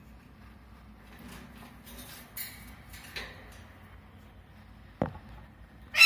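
Scattered scraping and knocking sounds, with a sharp click about five seconds in. A loud, harsh parrot squawk starts at the very end.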